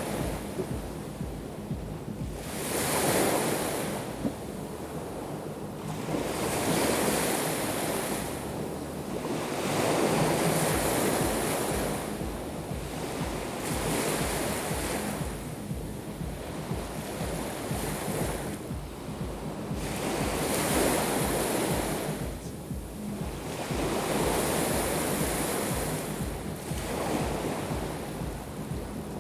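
Black Sea waves breaking on the shore, one swell of surf washing in about every three to four seconds, with a low rumble of wind on the microphone.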